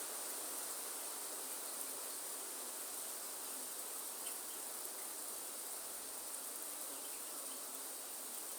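Steady rain falling as an even hiss, with a continuous high-pitched insect chorus over it.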